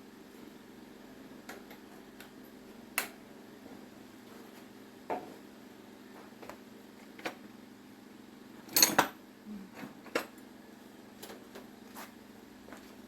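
Scattered clicks and knocks of small hard parts and tools being handled, most likely during work on an electric fan, with a louder clatter about nine seconds in. A faint steady hum runs underneath.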